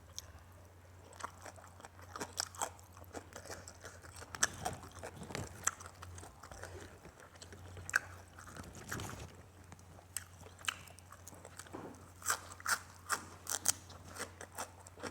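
A person chewing and biting crunchy food close to the microphone, with many short, irregular crunches and clicks.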